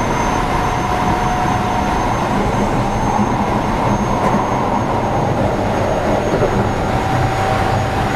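Running noise of a Keio 7000-series electric train heard from inside the passenger car: a steady rumble of wheels on rail with faint steady whines, one fading about two seconds in and another setting in near the end.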